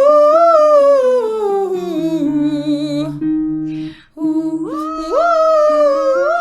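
Vocal warm-up exercise: a singer holds a high note and slides down a descending scale on one breath, over accompaniment notes stepping down beneath. It breaks off about four seconds in, then the singer rises into the high note again and starts another descent.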